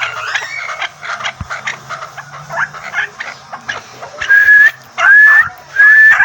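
Chukar partridge calling: a jumble of short chirps and clucks, then, from about four seconds in, a run of loud rising whistled notes, three in quick succession.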